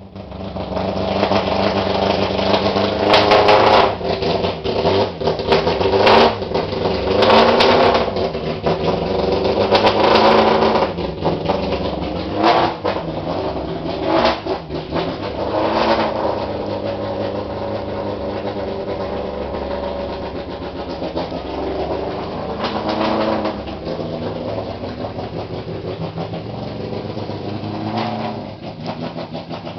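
BMW E46 M3 race car engine revved hard several times in the first half, then running steadier with a few short blips of the throttle.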